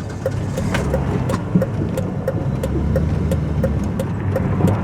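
Inside the car, the Volvo S80 T6's twin-turbo inline-six running with a steady low hum, while the hazard-light flasher ticks evenly about three times a second.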